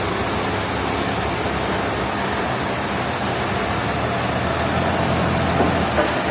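Heavy engine of sawmill machinery running steadily under a broad mechanical din, its low hum growing somewhat louder about halfway through.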